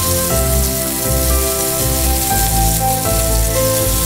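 Chopped shallots and garlic sizzling as they fry in hot oil in a pan, a steady rain-like hiss. Background music with a melody of held notes plays over it.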